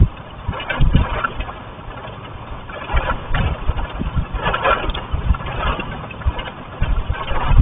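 Wind buffeting the microphone in irregular low, rumbling gusts, with brief noisy rushes every second or two.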